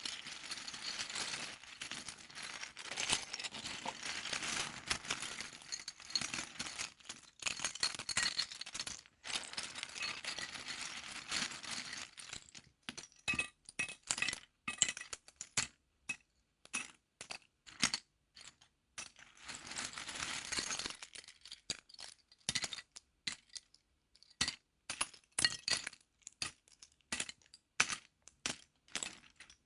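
Small plastic LEGO pieces rattling and clicking as they are sifted and handled. A dense clatter gives way to scattered single clicks about twelve seconds in, with another short clatter around twenty seconds in.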